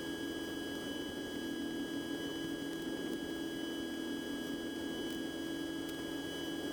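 Cessna 150's four-cylinder Continental O-200 engine and propeller droning steadily, muffled, with a thin steady whine above it.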